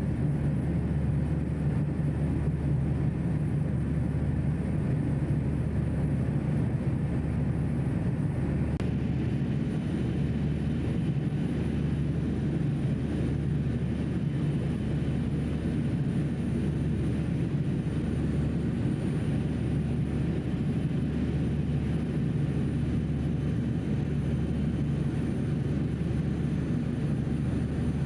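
Passenger ferry's engines running steadily, a deep unbroken drone heard from on board.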